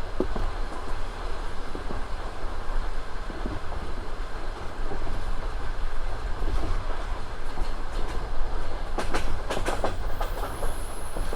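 Passenger train wheels rumbling steadily and clacking over the rail joints. About nine seconds in comes a quick run of sharper clacks, followed near the end by a thin, high wheel squeal.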